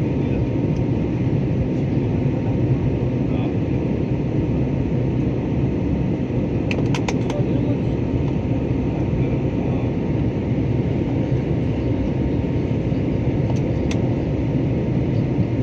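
Steady cabin roar inside an Airbus A320 in flight: jet engine and airflow noise, heaviest in the low range, with a few faint clicks about seven seconds in.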